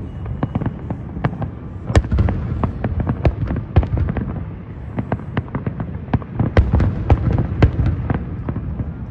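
Fireworks going off: a rapid, irregular run of sharp cracks and bangs, several a second, over a continuous low rumble.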